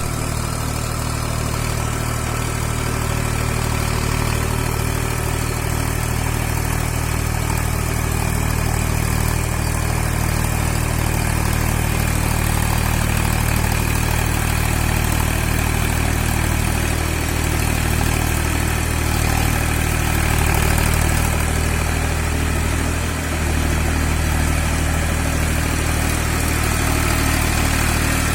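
TAFE tractor's diesel engine running steadily at idle, with an even low throb.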